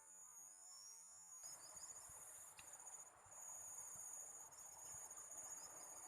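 Faint, steady high-pitched chirring of insects, with short repeated chirps over it. It gets louder about a second and a half in.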